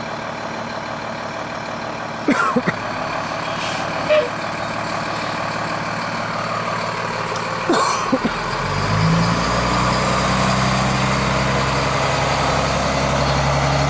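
Fire engine running at idle, with a few brief sharp sounds. About eight seconds in, its engine note grows louder as it pulls away.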